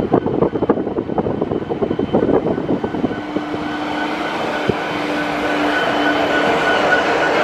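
A train drawing closer, growing steadily louder. Gusty wind on the microphone early on gives way to steady tones that come in about three seconds in.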